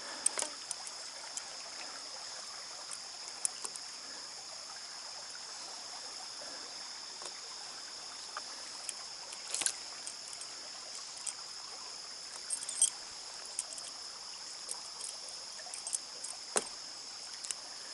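Stream water running steadily, with a constant high-pitched hiss over it and a few sharp clicks scattered through.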